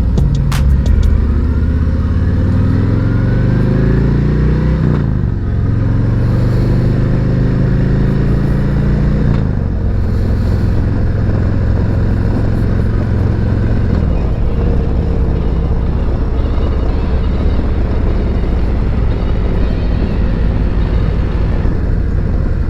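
2021 Harley-Davidson Road Glide Special's Milwaukee-Eight 114 V-twin, breathing through an S&S MK45 slip-on exhaust, accelerating through the gears. The pitch climbs, drops at an upshift about five seconds in, climbs again to another shift near ten seconds, then holds and eases off a little after the middle into steady cruising.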